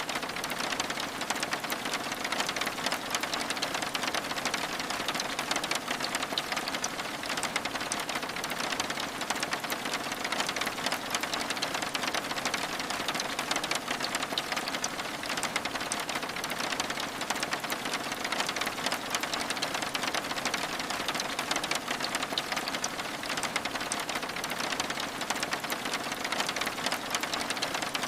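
Steady rain on a window, a dense even hiss of drops with many fine ticks that never lets up.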